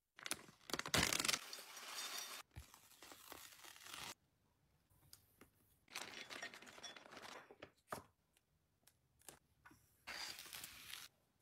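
Packaging being torn open and crinkled in four rustling stretches, with sharp clicks and taps of items being handled between them.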